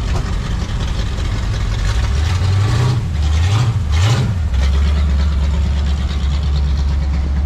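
Car engine blipped three times in quick succession, pitch rising and falling with each rev, then settling into a steady low idle rumble.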